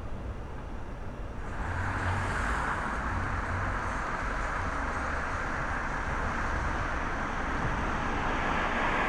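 Aircraft engine noise: a steady rushing sound over a low rumble that swells about a second and a half in and keeps slowly building.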